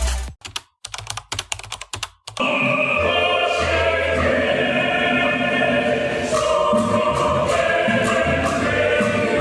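A quick run of keyboard typing clicks for about two seconds, then music with choir-like singing comes in and plays on.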